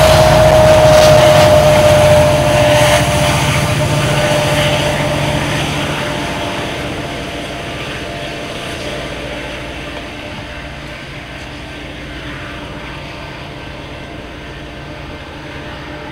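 A freight train's last hopper cars rolling past, a steady rumble with a high steady tone in the first few seconds, then fading away as the train moves off.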